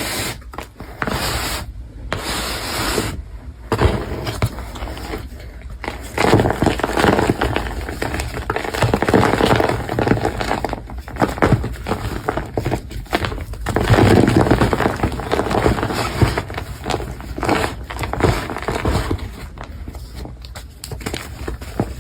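Crumbly material being crushed and scraped up close: a dense run of crunching and crackling with a few short breaks in the first seconds.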